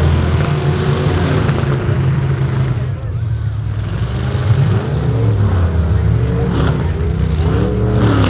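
Demolition derby trucks' engines running loud and revving, rising and falling in pitch several times, with a couple of short sharp knocks near the end.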